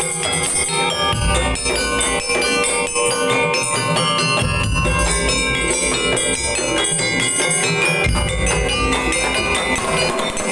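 Madurese daul music: a percussion ensemble playing fast, dense drumming and metallic bell-like strikes over steady held tones, with a deep bass that drops in and out every few seconds.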